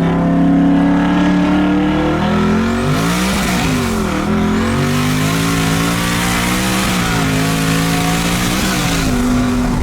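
Twin-turbo Ford F-150 engine under hard acceleration. The engine note drops and climbs again through gear changes, with a loud rushing noise over it for most of the run, then settles to a steady note near the end.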